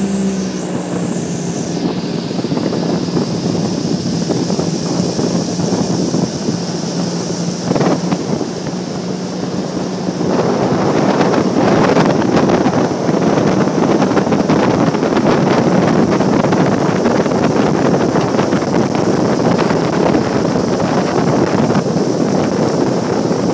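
Boat motor running with wind buffeting the microphone and water rushing past the hull. About ten seconds in, the noise grows louder as the boat speeds up.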